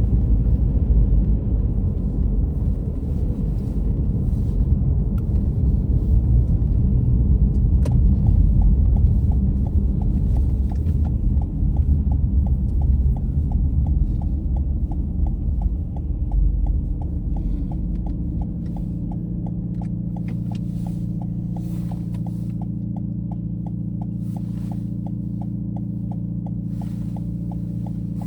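Car cabin road rumble while driving, easing off as the car slows and comes to a stop about eighteen seconds in, leaving a steady low engine drone at idle. From about eight seconds in, an even ticking runs at about two to three ticks a second.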